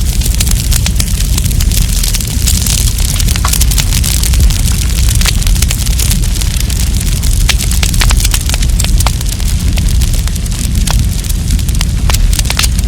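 Wood campfire crackling, with frequent sharp pops and snaps scattered irregularly over a steady low rumble.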